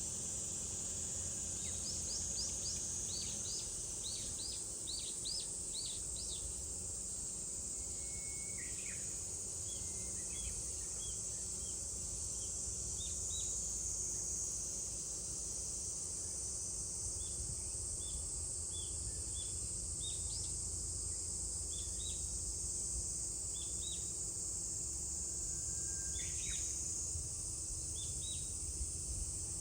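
Steady high-pitched cicada drone with small birds calling over it: a quick run of falling notes a couple of seconds in, then short chirps repeated every second or so. A low rumble sits beneath.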